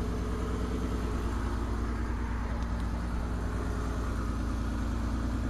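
Eagle Premier's engine idling steadily, heard at the tailpipe, on a cold start after two months of sitting; the owner says the engine is low on compression.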